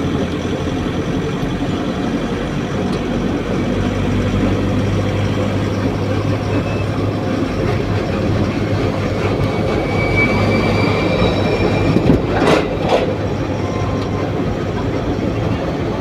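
A heavy vehicle in motion: steady, loud rumbling running noise with a low hum, faint high squealing around the middle, and two sharp knocks in quick succession about three-quarters of the way through.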